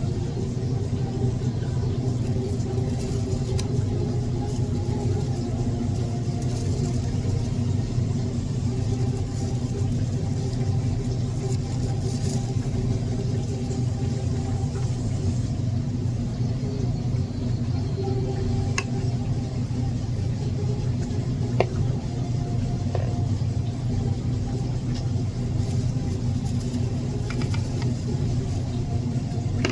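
A steady low rumble with a constant hum, like a motor running without change, with a few faint clicks in the second half.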